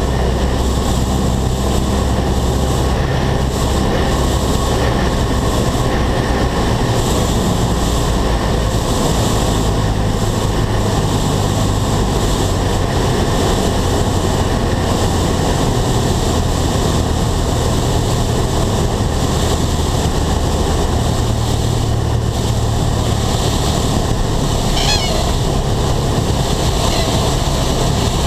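Steady engine and propeller drone with rushing air noise, heard inside the cabin of a single-engine piston airplane in flight. Near the end a brief warbling high tone sounds once.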